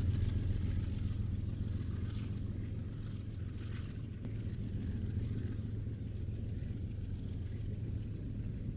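Train rumbling steadily: a deep, continuous low hum with faint scattered higher noise, easing slightly in loudness as it goes.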